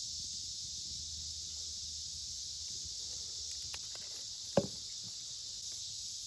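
Steady, high-pitched chorus of insects, with a single sharp click about four and a half seconds in.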